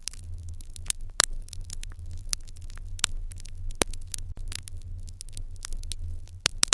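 Wood fire in an irori hearth crackling with irregular sharp pops, a few louder ones about a second in, around three to four seconds in, and a close pair near the end, over a steady low hum.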